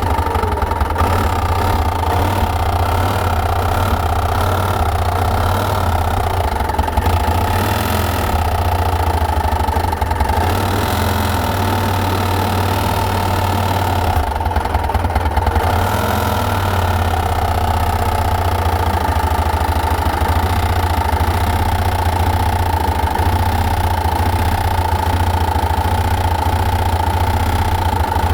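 2005 Yamaha Rhino's engine running steadily at idle, a low drone with a steady high tone over it; the machine makes a noise the owner cannot identify.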